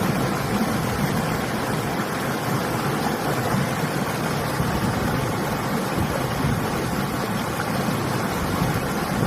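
Steady rush of flowing river water mixed with winter wind.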